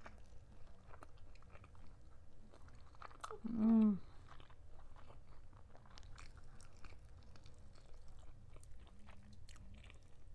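Close-miked chewing and wet mouth clicks of someone eating a sticky, gold-dusted chicken drumstick. About three and a half seconds in there is a short falling "mm" hum.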